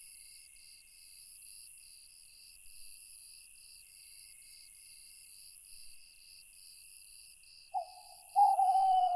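Night forest ambience: crickets chirping in a steady pulsing rhythm of about two to three chirps a second over a constant high insect drone. Near the end an owl gives a short hoot, then a longer, louder one.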